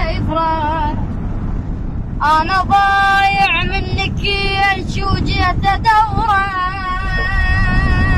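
A munshid's solo male voice chanting high, with wavering ornamented held notes and no instruments, pausing briefly about a second in. A steady low rumble runs underneath.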